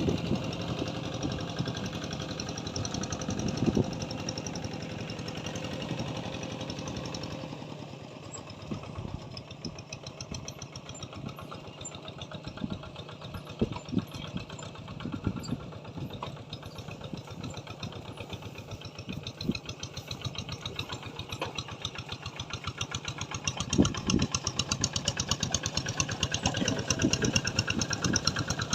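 A small engine running steadily with a fast, even beat, louder near the start and again near the end, with a few sharp clicks over it.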